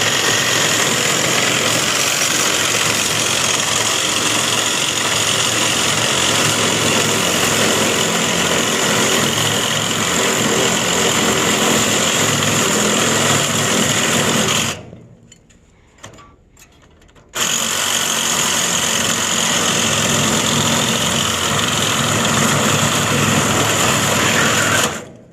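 Loud, steady running of an engine or machine. It cuts off suddenly about fifteen seconds in, starts again about two and a half seconds later, and stops near the end.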